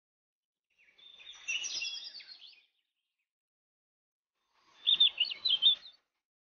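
Small birds chirping in two short bursts of quick, high, twittering notes, one about a second in and one near the end.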